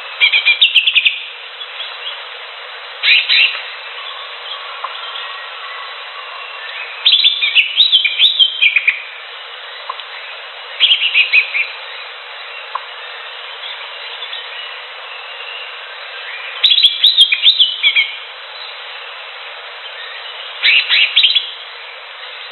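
Cucak hijau (leafbird) singing: six short bursts of rapid, jumbled chirping phrases, a few seconds apart, over a steady hiss.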